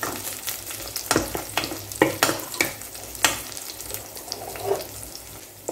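Chicken skin, garlic and green onion frying in oil in a rice cooker's pot, sizzling steadily as the skin renders its fat, while a utensil stirs them, knocking and scraping against the pot several times in the first few seconds.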